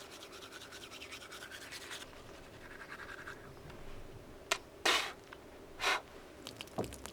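Teeth being brushed with a toothbrush: quick scrubbing strokes for the first couple of seconds, then softer brushing, with three short louder noises between about four and a half and six seconds in.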